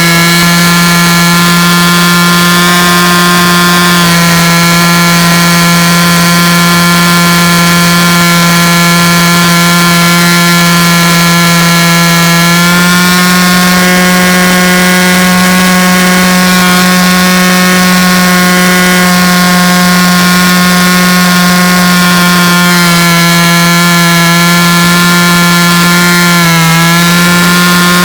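A loud, steady machine drone on one low pitch with many overtones. It shifts up a little about halfway through and dips briefly near the end.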